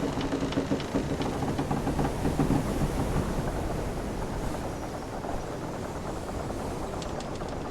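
Wooden ship's timbers creaking in a drawn-out groan for the first few seconds, over a steady wash of sea, with scattered light ticks.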